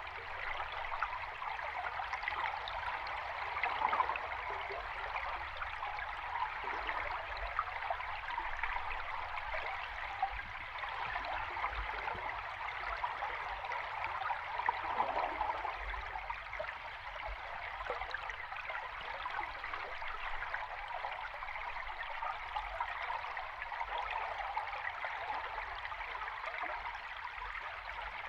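River water flowing, recorded underwater: a steady rushing hiss of moving water, swelling briefly louder about 4 seconds in and again about 15 seconds in.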